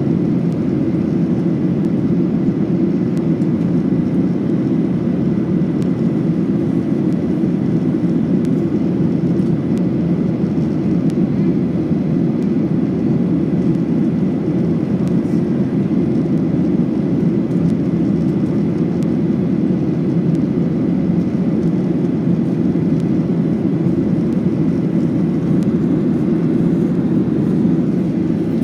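Steady cabin roar of a Boeing 737-800 climbing after takeoff, heard inside the cabin: the low rush of its CFM56 engines and airflow, unchanging, with a faint steady whine above it.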